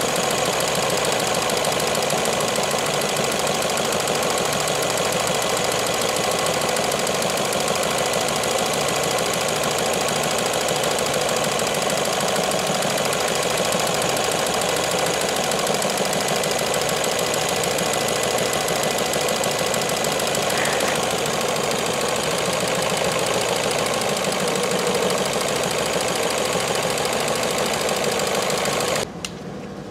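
Ford C-Max 1.6 petrol four-cylinder engine idling rough and misfiring, heard close up in the engine bay. The misfire comes from an ECU connector that has worked loose and lost contact. The sound cuts off suddenly near the end.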